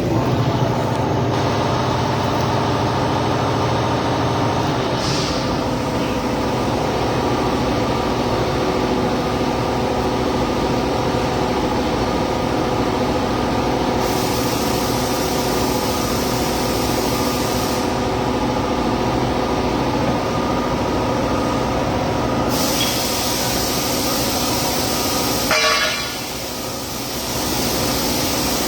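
Steady hum of running workshop machinery with several held tones. Twice a hissing noise joins in for a few seconds, the first about halfway through and the second a little later, and the hum drops off briefly near the end.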